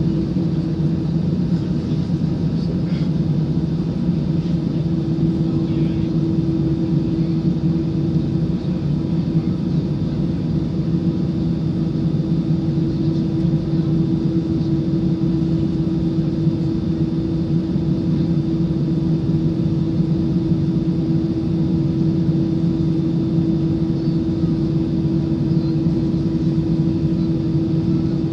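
Airbus A319 cabin noise in the climb: the jet engines and airflow make a steady low drone with a constant hum tone.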